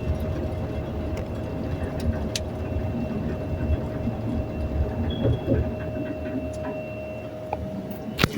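Elevator car travelling, noisy in motion: a steady low rumble with a constant hum and a faint high whine. The hum cuts off about seven seconds in, and a sharp click follows at the very end.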